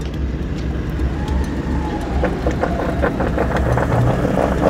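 Toyota LandCruiser Troop Carrier's engine running with a steady low rumble while its winch drags the bogged vehicle through mud. A faint whine comes in about a second in, and from about two seconds in there is a run of rapid, irregular crackles and clicks.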